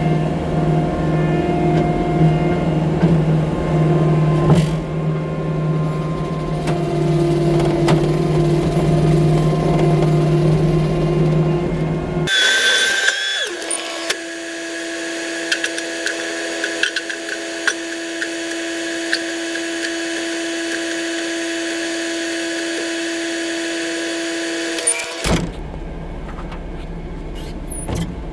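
Motorized equipment running steadily. A low engine drone lasts about twelve seconds, then cuts abruptly to a higher, steady machine whine with one held tone, and the low drone returns near the end.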